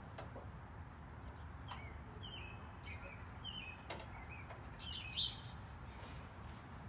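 Bird chirps outdoors: a handful of short, high calls between about two and five seconds in, the loudest near the end, over a steady low rumble, with a couple of faint clicks.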